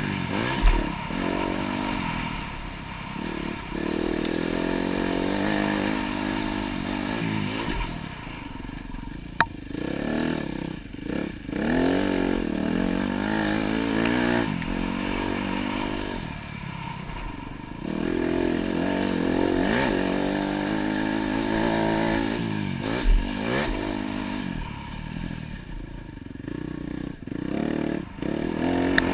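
Dirt bike engine revving up and down repeatedly as it is ridden around a motocross track, easing off the throttle several times between pulls. A few sharp thumps are heard.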